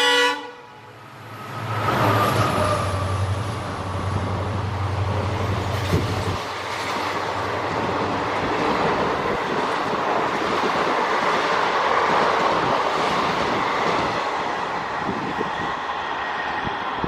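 Express train passing close by at speed. A horn blast cuts off at the very start. After a short lull the locomotive arrives with a loud rumble and a low engine drone, then the coaches run past with a steady roar and wheels clattering over rail joints.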